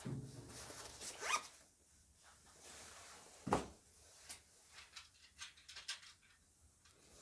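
Hands working on a dryer's parts: a short rising scrape about a second in, a louder swish about three and a half seconds in, then a run of small clicks and knocks.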